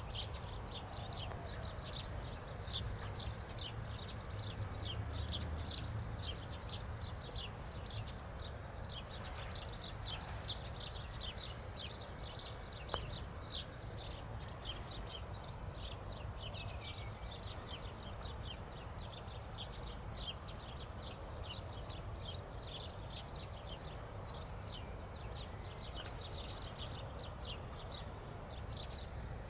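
Small birds chirping without pause, a steady stream of short, high notes over a low, distant rumble, with a single click about halfway through.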